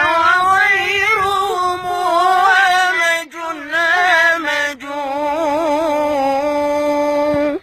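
Children's voices singing an Arabic Sufi devotional song (qasida) in long, ornamented melismatic phrases. Near the end a final note is held steady for about a second, then cuts off suddenly.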